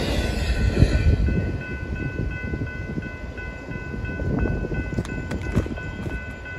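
Double-stack intermodal freight cars rolling past on steel rails: a steady low rumble of wheels on track that eases a little after the first second. A thin, steady, high ringing tone sits over the rumble, and a few sharp clicks of wheels over rail joints come about five seconds in.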